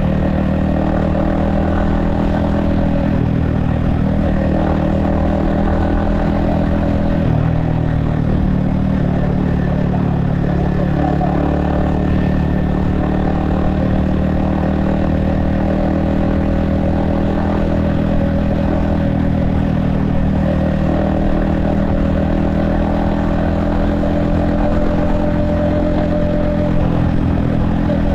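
Yamaha XSR155's 155 cc single-cylinder engine and exhaust running steadily while riding, heard from a helmet-mounted camera. The engine note shifts about a quarter of the way in, then holds.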